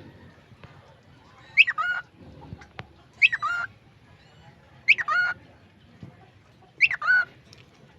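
Cockatiel saying "peekaboo" over and over in a bright, squawky voice: four short calls, each of two or three quick parts, about every two seconds.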